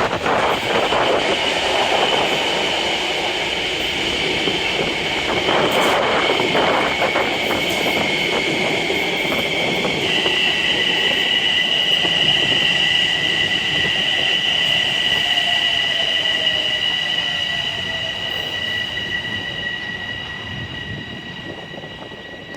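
Metro-North train running through the station with a steady high-pitched wheel squeal, two tones that shift in pitch about ten seconds in, over rumbling train noise at first; the sound fades toward the end.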